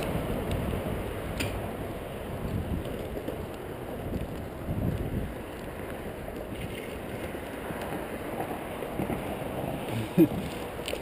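Steady low rumble of skateboard wheels rolling over trail pavement, mixed with wind on the microphone, with a faint click about a second and a half in.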